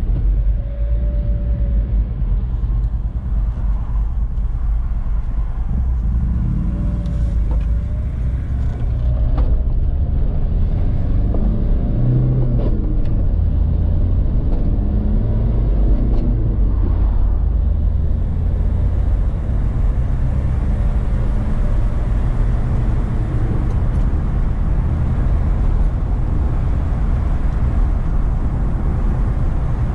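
A motor vehicle's engine running steadily with a low rumble, heard through constant road and wind noise.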